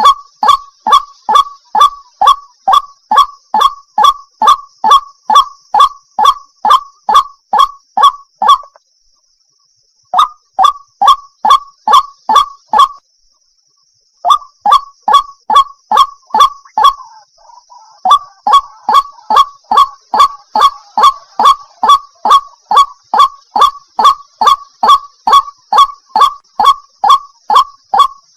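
Water hen calling: a long run of loud, evenly repeated honking calls, about two to three a second, broken by two short pauses.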